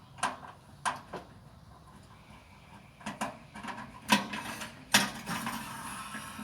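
Sheet-metal and plastic parts of a microwave oven being handled and pulled apart: a string of sharp knocks and clicks, then a stretch of scraping and rattling from about four seconds in.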